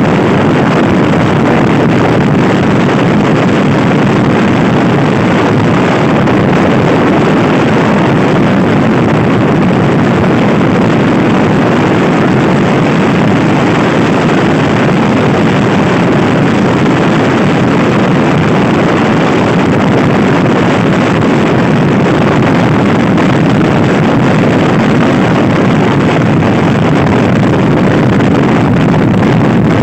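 Loud, steady wind rushing over the camera's microphone while riding a Honda Scoopy-i scooter at speed, drowning out the engine.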